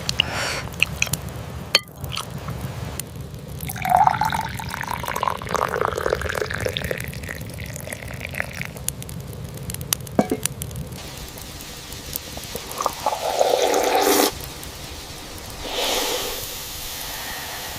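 Liquid poured into a vessel, its pitch rising steadily for about four seconds as the vessel fills, followed by a few more splashes and pours. Steady rain sounds in the background.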